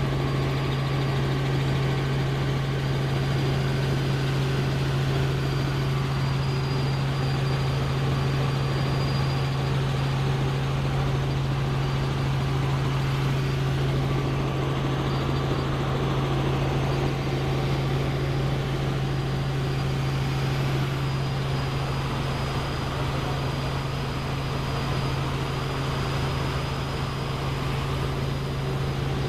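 Helicopter in steady flight: a constant low drone of engine and rotors under a dense rushing noise, with a faint high whine, unchanging throughout.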